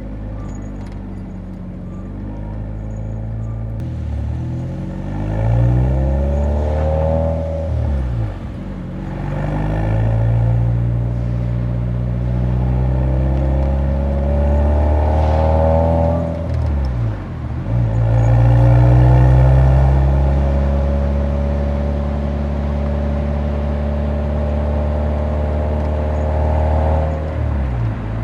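Nissan 180SX's exhaust while driving: the engine note rises as it accelerates, drops sharply at an upshift about eight seconds in and again about seventeen seconds in, then holds a steady pitch while cruising before falling away near the end.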